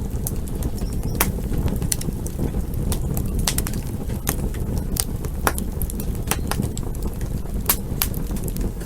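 Campfire burning: a steady low rumble of the flames with irregular sharp crackles and pops from the wood, several a second.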